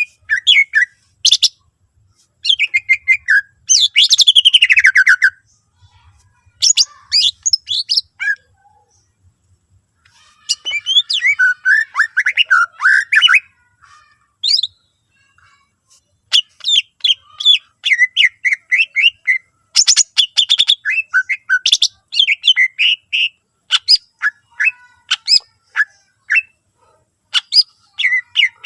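Cucak ijo (green leafbird) singing loudly in rapid bursts of chirps, trills and downward-sliding whistled notes, with short pauses between the phrases. It is a full 'gacor' song laced with mimicked phrases of other birds.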